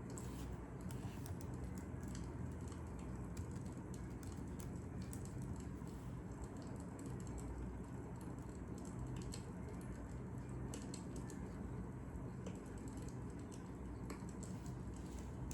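Fire crackling: irregular sharp snaps and pops over a steady low rumble of burning.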